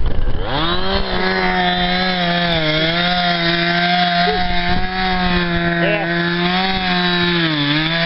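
A two-stroke chainsaw revving up and running at high, steady speed, its pitch dipping briefly twice, as it cuts up a fallen tree.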